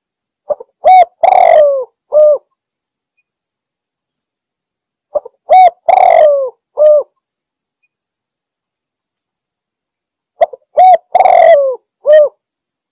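Spotted dove (tekukur) cooing a challenge call to rivals. Three song phrases come about five seconds apart, each a faint short note, a short coo, a longer falling coo and a closing coo.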